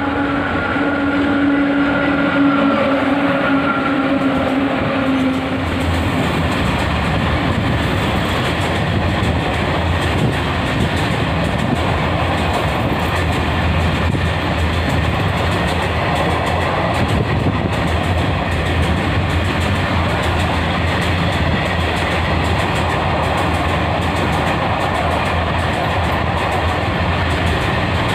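Freight train passing at close range: a steady, loud rumble of wagons rolling by with wheel clatter on the rails. A few steady tones sound for the first few seconds and then fade into the rumble.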